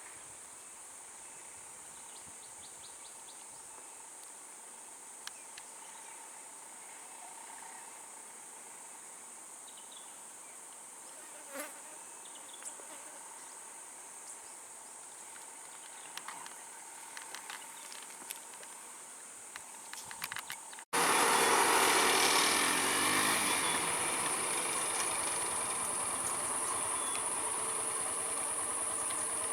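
Steady high-pitched drone of insects such as crickets or cicadas, with scattered faint clicks. About two-thirds of the way through, the sound cuts abruptly to a much louder, steady noise.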